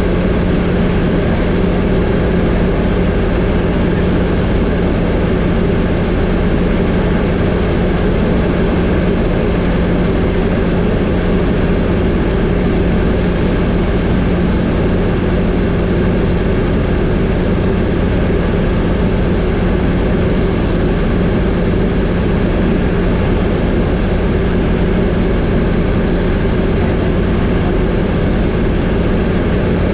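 Helicopter in steady cruising flight, its engine and rotor running evenly with a constant low hum.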